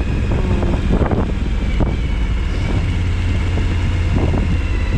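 Suzuki V-Strom 1000XT's V-twin engine running at a steady pace while the motorcycle is ridden, with wind rushing over the helmet-mounted microphone.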